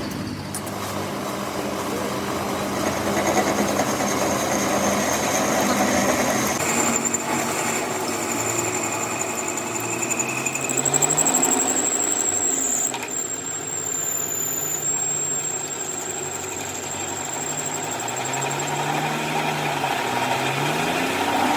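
A machine running with a thin, high-pitched whine over a mechanical rumble; the whine steps up in pitch about seven seconds in and fades out around fifteen seconds.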